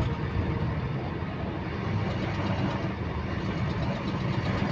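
Bus engine running steadily, with a repetitive clicking that keeps time with the engine speed.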